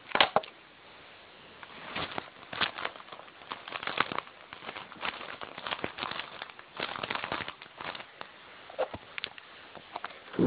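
Package wrapping crinkling and crackling in irregular bursts as it is handled and pulled at by hand, with a louder knock just after the start.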